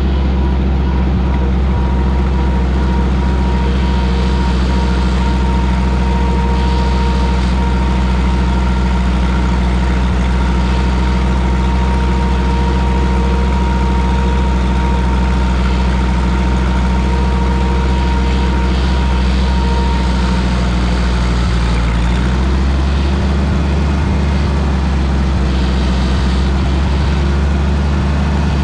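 Minneapolis Moline tractor engine running steadily, with a faint high whine over it that stops about 20 seconds in. The engine note changes about 22 seconds in.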